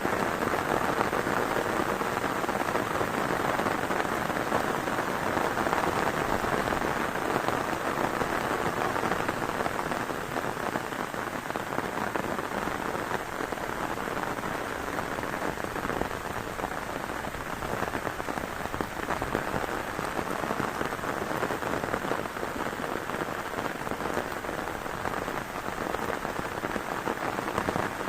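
Heavy rain falling in a steady, dense hiss, easing slightly about a third of the way in.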